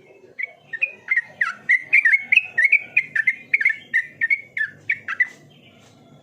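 Sooty-headed bulbul (trucukan) singing a rapid string of short, loud whistled notes with quick up-and-down slides, lasting about five seconds.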